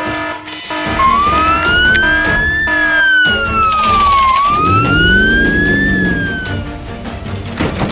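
Animated emergency-vehicle siren wailing: a slow rising and falling wail, two sweeps up and one down, that fades out near the end, over background music.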